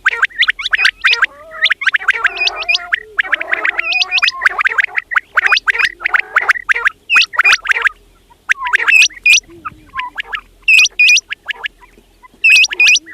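Quail calling: fast runs of chattering notes for about the first eight seconds, then short groups of three or four sharp, hooked whistled notes repeated every second or two.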